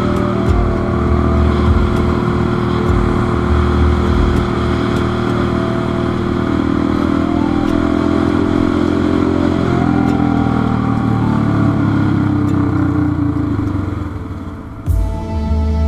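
Motorcycle engine running on the move, its revs held steady and then falling away gradually as it slows down. About a second before the end, music cuts in abruptly.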